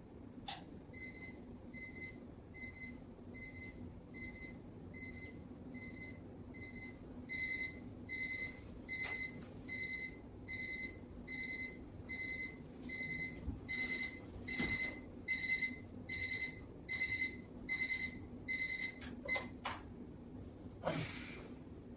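Wake-up alarm beeping in a steady run of short, high beeps, about one and a half a second, growing louder about seven seconds in. A few clicks and a rustle come near the end.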